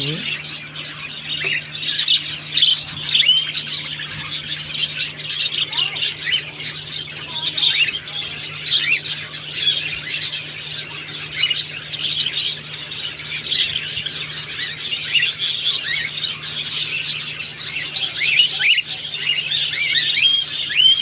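A flock of cockatiels calling continuously: many short, overlapping chirps and squawks, with a steady low hum underneath.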